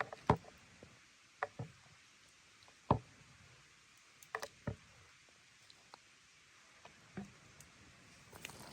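Scattered sharp knocks and taps, about eight in all, of cooking utensils and containers being handled and set down during food preparation, with a soft rustle near the end.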